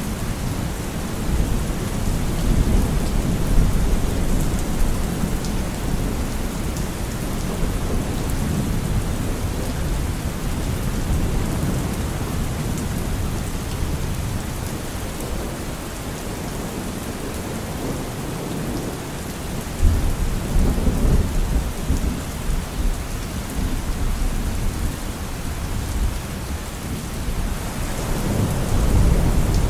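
Steady rain falling, with low rolling thunder rumbling in swells: one near the start, a sharper one about two-thirds of the way through, and another building near the end.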